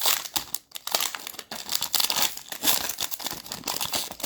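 Foil wrapper of a Mosaic basketball card pack crinkling and tearing as it is opened by hand, with irregular crackles throughout.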